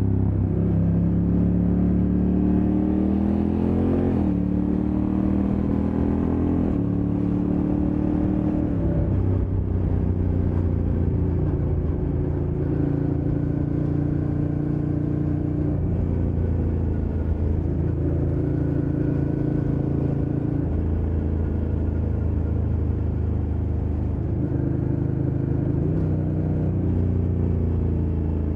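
Honda NT1100 DCT's 1084 cc parallel-twin engine running under way. Its revs climb and then drop sharply twice in the first seven seconds as the dual-clutch gearbox shifts up, after which it settles to steadier revs with small rises and falls.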